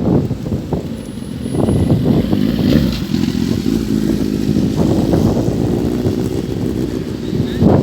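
A motor vehicle's engine running.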